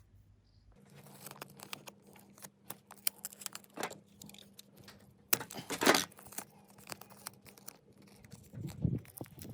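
Adhesive tape being pulled off the roll and wound around a repaired extension-cable joint, crackling in short irregular strokes. A longer, louder tearing pull comes about five to six seconds in.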